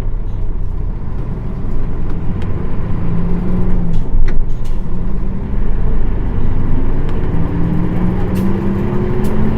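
Nissan Diesel KL-UA452KAN bus with a PF6 diesel engine, heard from inside the bus while under way: a steady engine and drivetrain rumble that grows louder about two seconds in. A humming tone sounds around three seconds in, and another rises in pitch through the last few seconds as the bus picks up speed.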